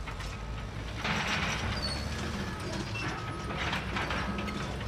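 Caterpillar D6R dozer with its C9 diesel running under load, its steel tracks clattering and squeaking as it works. The clatter gets louder about a second in.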